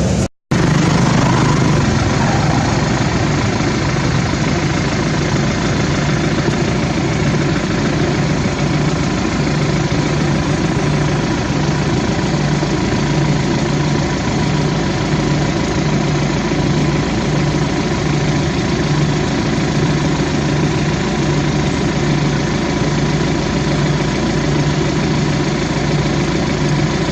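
An engine running steadily at idle, a constant hum with a regular low throb about one and a half times a second.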